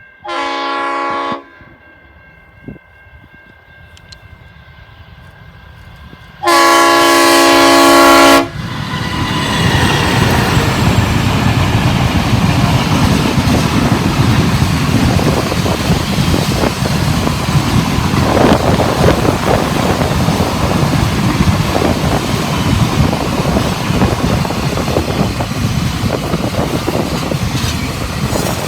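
Diesel locomotive horn sounding twice: a short blast, then a longer, louder chord about six seconds later. The locomotives then pass close by, their engines and wheels making a loud, continuous rumble as the freight train goes past.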